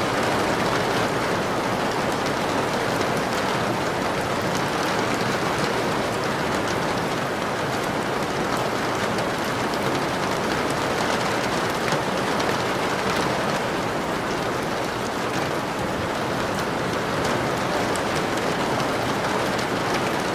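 Steady heavy rain falling on a surface, a dense even hiss with many fine drop ticks.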